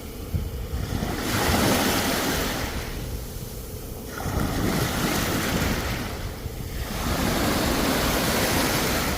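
Sea waves breaking and washing up the shore, the surf swelling and ebbing in three surges a few seconds apart.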